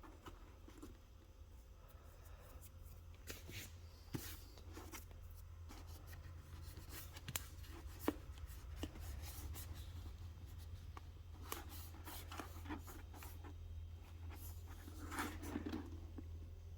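Light scraping and rubbing with scattered small clicks from hand work, over a low steady hum; one sharper click about eight seconds in.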